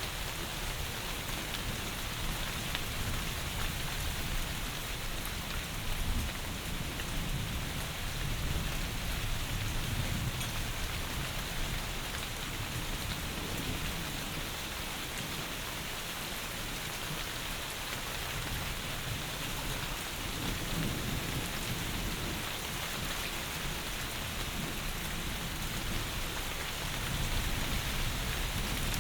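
Heavy rain falling in a steady, even hiss, with low rumbles of thunder swelling now and then and growing louder near the end.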